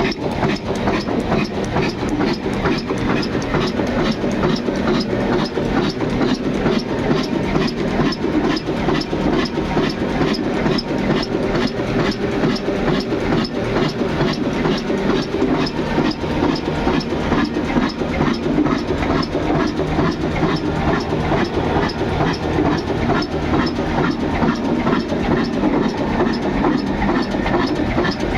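Old 22 HP diesel engine running steadily, with an even, rhythmic beat.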